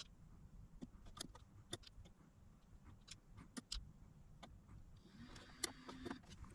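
Faint, irregular light clicks and taps from small-part handling at a workbench, with a brief faint hum and whine a little after five seconds in.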